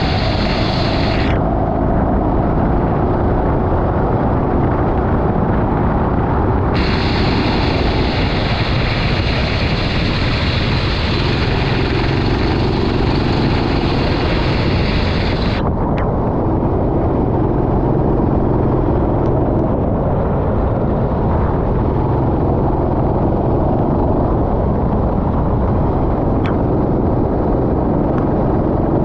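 Racing kart's small engine running hard, heard onboard as a loud, steady noise with no break.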